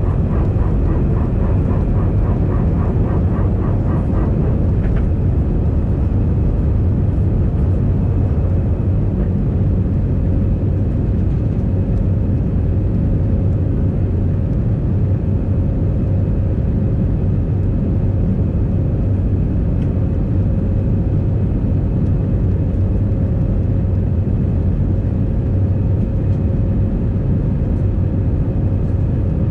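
Steady cabin roar of an Airbus A320 in flight, engine and airflow noise with a deep hum and a faint steady higher tone. A faint rapid pulsing runs over it for the first few seconds.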